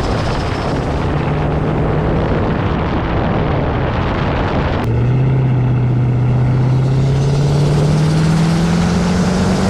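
Turbocharged Dodge car engine pulling hard under acceleration, its note climbing, with an upshift about five seconds in before it climbs again, over heavy wind and road rush.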